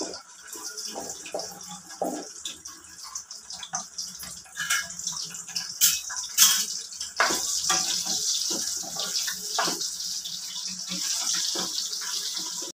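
Cut okra frying in hot oil in a kadhai on high flame: a steady sizzle with frequent small pops and crackles, getting denser from about halfway through.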